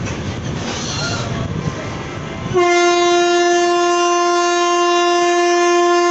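Passenger express train running with a rumbling noise, then about two and a half seconds in the locomotive's horn starts one long, steady, loud blast.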